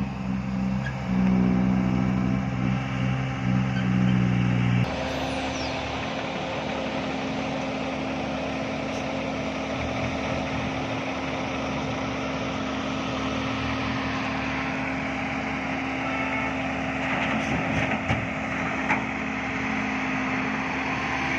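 Heavy diesel engine of construction machinery running: loud and deep for about the first five seconds, then changing suddenly to a steadier, slightly quieter engine sound with a constant hum for the rest.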